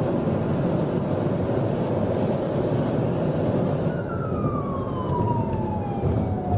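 Heavy road and engine rumble of a police car driving fast in a pursuit. About two-thirds of the way through, a siren wail comes in and slides steadily down in pitch.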